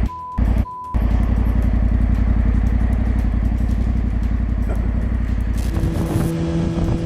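Motorcycle engine running with a dense, even pulsing, after two short high beeps at the very start. Near the end the sound changes to a steady hum with two held tones.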